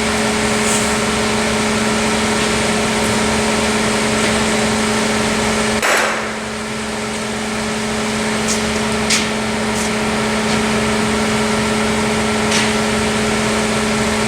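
Compressed-air paint spray gun hissing steadily over a constant machine hum. A short sharp sound about six seconds in is followed by a brief drop in the hiss before it builds back up.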